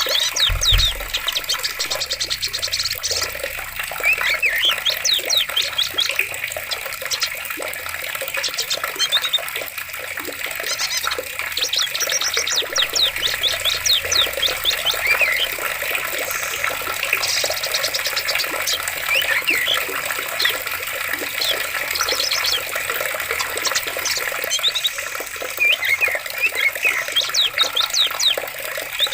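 Running water over steady forest ambience, with birds chirping repeatedly in short high trills throughout. A brief low thump sounds about half a second in.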